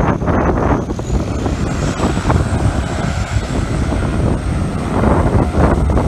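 Wind buffeting the microphone, with a small propeller aircraft's engine heard beneath it as a thin high whine that rises slowly.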